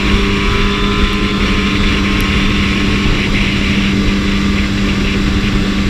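BMW S1000RR inline-four motorcycle engine running at a steady speed under a constant hiss of noise, with no revving.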